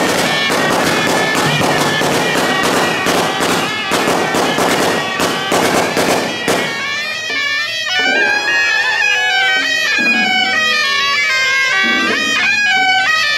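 Strings of firecrackers crackling densely for about the first six and a half seconds over a shrill suona (Chinese shawm) melody. The suona carries on alone after the firecrackers stop, its tune gliding up and down.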